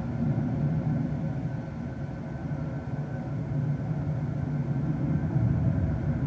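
Jet airliner engines running: a steady low rumble with a whine of several steady tones above it.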